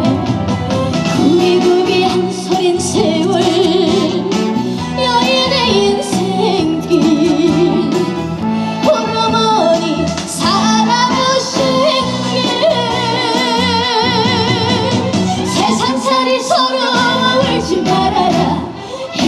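A trot song performed live: a female voice singing a melody with a wide vibrato over a full backing band.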